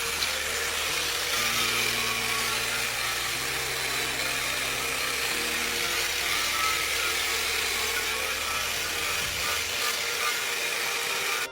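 Steady mechanical running noise with a strong hiss and a low hum that jumps in pitch a few times, as from a workshop machine or engine.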